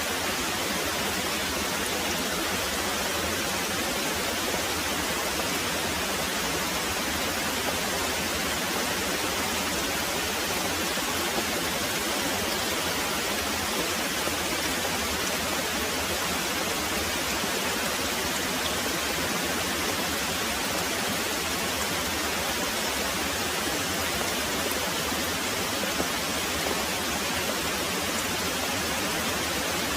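Very heavy rain pouring steadily: a dense, even hiss with no thunder heard.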